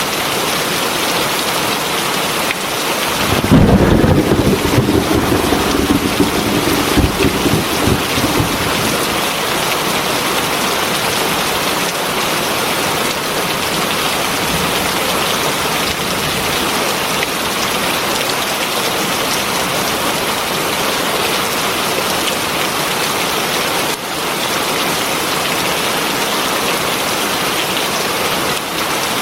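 Heavy rain falling steadily. About three seconds in, a roll of thunder rumbles low and loud, then fades over the next few seconds.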